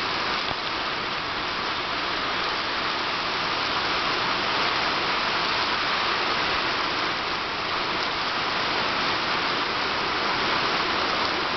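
Heavy tropical rain falling steadily, a dense even hiss of downpour.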